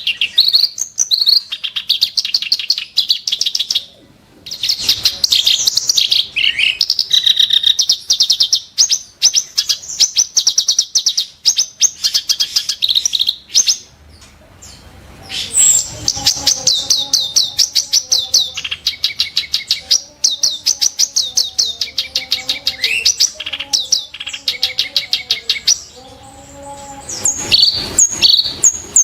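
Kerak basi (reed warbler) singing: long runs of rapid, sharp, harsh repeated notes, with brief breaks about 4 seconds in and about halfway through.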